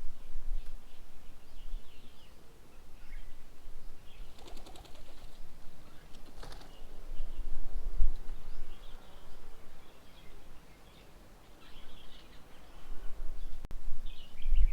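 Birds chirping at a bird table in short high calls, with a quick flurry of wing flaps about four seconds in. A low rumble comes and goes underneath.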